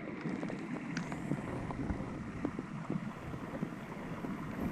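Steady rush of a flowing creek mixed with wind buffeting the microphone, heard through a waterlogged camera, with a few faint clicks.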